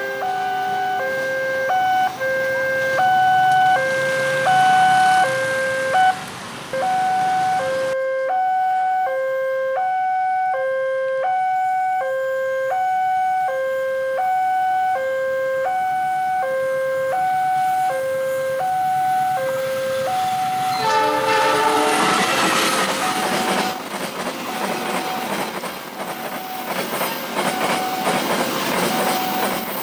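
Railway level-crossing warning alarm sounding a two-tone signal, switching between a lower and a higher tone about once a second. About 21 s in, a train horn blows and a train passes, its wheel noise loud over the continuing alarm.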